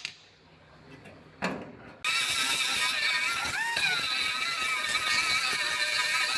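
Electric angle grinder working on sheet-metal rust, cutting in abruptly about two seconds in after a few quiet knocks, then running steadily with a high whine that wavers and briefly swoops up and back down near the middle.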